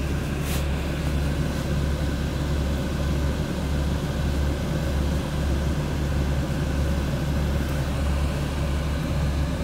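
Steady low drone of a semi truck's diesel engine running, heard inside the cab, with a faint click about half a second in.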